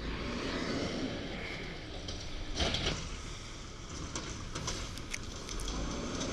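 1993 WhiteGMC diesel garbage truck running, with a loud clatter about two and a half seconds in and a few sharp clicks near the end.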